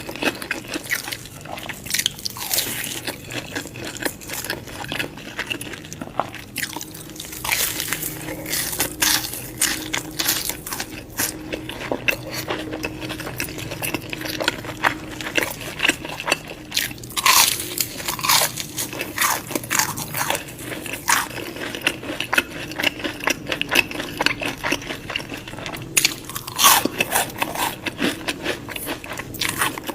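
Close-miked eating: crunchy bites and chewing, a dense run of irregular crackles and crunches.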